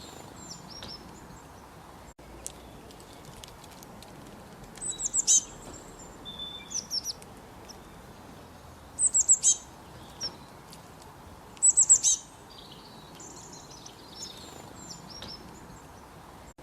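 Songbirds singing in short runs of quick, high, downward-sweeping notes, loudest about five, nine and twelve seconds in, over a steady rush of a babbling creek.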